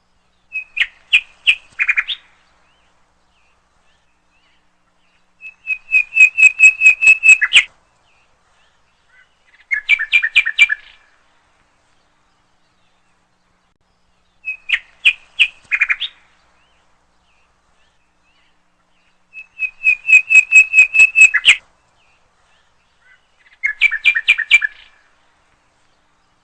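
A songbird's calls: short bursts of rapid, evenly spaced chirps over silence, in three phrases that then repeat almost identically about fourteen seconds later, as a looped recording.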